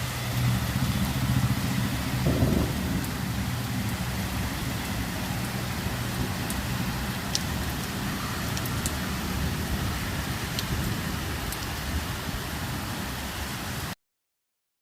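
Heavy rain falling steadily, a constant hiss with scattered sharp drop ticks, over the low hum of a vehicle engine. The sound cuts off abruptly about a second before the end.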